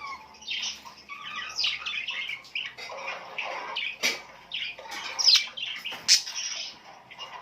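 Birds chirping and squawking over one another in quick, overlapping calls, with two louder, sharp calls about five and six seconds in.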